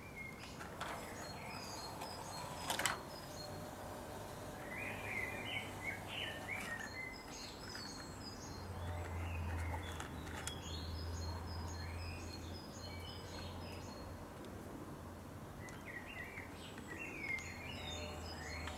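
Birds chirping in several repeated spells of quick high calls, over a steady low hum, with one sharp click about three seconds in.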